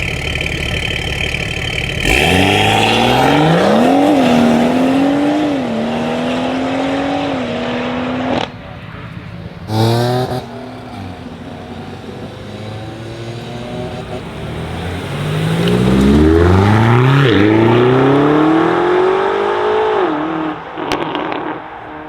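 Car engines accelerating hard away, one after another. The first revs up about two seconds in, holds, and cuts off sharply, followed by a short blip. A second car revs up near the end of the first half, with a brief drop in pitch partway through, then fades.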